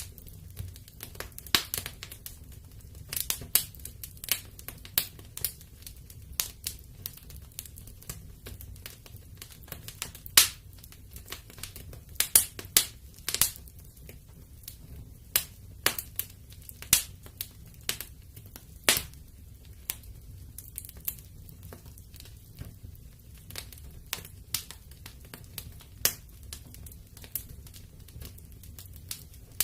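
Wood fire burning in a fireplace: irregular crackles and sharp pops, sometimes several close together, over a low steady rumble, with the loudest pop about ten seconds in.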